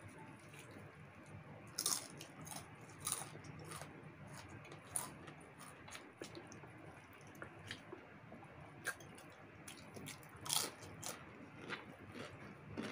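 Close-up eating sounds: people chewing and biting into roast chicken, with irregular crisp crunches and mouth clicks scattered through.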